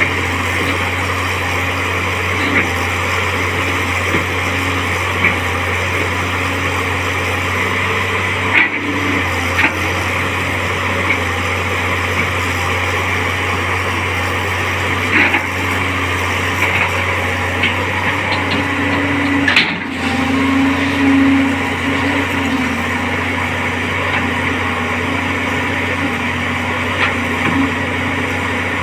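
Tracked excavator's diesel engine running steadily under load while the hydraulics work the arm to haul the machine out of deep mud, with a few clunks from the boom and bucket. A brief strained, wavering rise in pitch comes about 20 seconds in.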